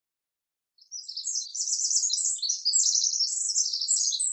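Birds chirping in quick, high-pitched trills and runs. They start abruptly out of complete silence about a second in and keep going.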